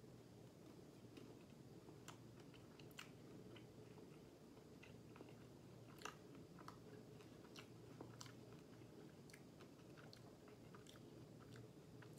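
Faint chewing of a mouthful of pizza: soft, irregular mouth clicks over a low steady room hum.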